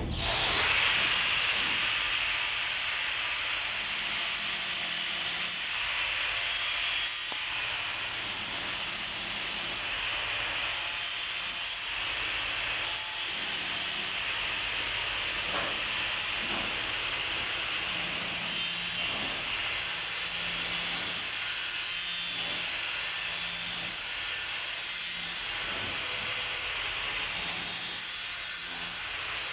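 Welding arc on a stainless steel pipe, hissing and crackling steadily; it strikes suddenly and then burns evenly throughout.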